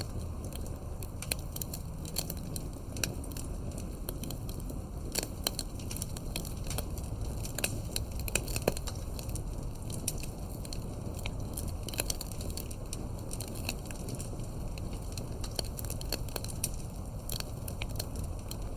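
Campfire of burning firewood crackling: many irregular sharp pops and snaps over a steady low rumble of the flames.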